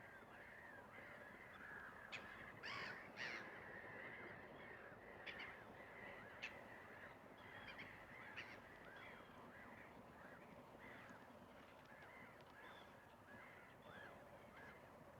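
Distant birds calling over a quiet lakeside ambience: a steady chorus of short, repeated chirps, with a few sharper calls in the first half.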